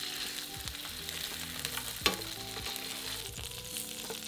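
Salmon fillets sizzling in hot olive oil in a frying pan as they are turned with tongs, with one sharp click of the tongs against the pan about two seconds in.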